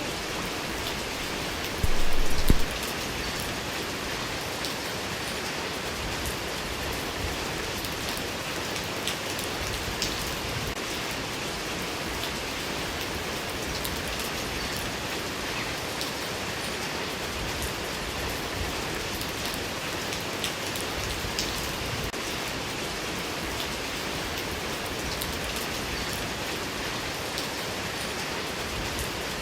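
Steady rain falling on surfaces, a dense hiss with scattered drop ticks. About two seconds in there is a brief, much louder noise lasting under a second.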